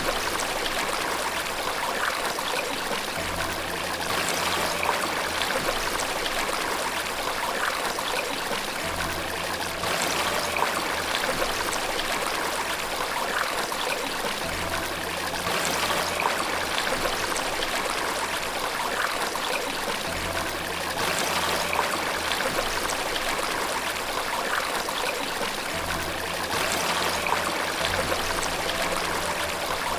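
Steady rushing and trickling of a stream or small waterfall, with soft low sustained music notes that return about every six seconds underneath.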